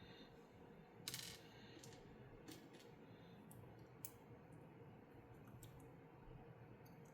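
Faint, scattered clicks and clatters of plastic LEGO pieces being handled and fitted together, with a louder short rattle about a second in.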